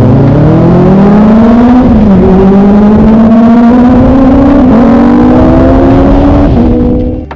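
Kawasaki ZX25R's 250 cc inline-four engine accelerating hard. Its pitch climbs, drops at a gear change about two seconds in, then climbs steadily again through the next gear. The sound cuts off suddenly near the end.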